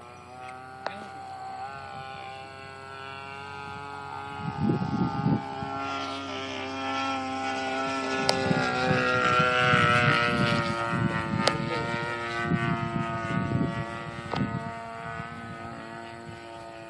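Radio-controlled P-51 model's DLE 30 single-cylinder two-stroke gas engine, fitted with a Keleo exhaust, running steadily in flight. Its drone grows louder to a peak about ten seconds in as the plane passes, then fades. Wind gusts rumble on the microphone beneath it.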